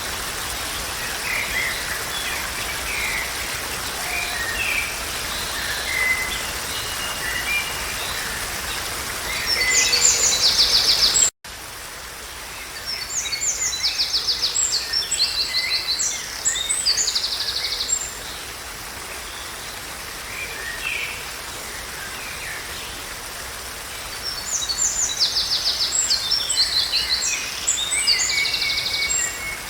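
Songbirds singing, with repeated fast high trills and scattered chirps, over a steady rushing hiss of natural ambience. About eleven seconds in the sound cuts out for an instant and resumes with a softer background, the trills returning in bursts of a few seconds.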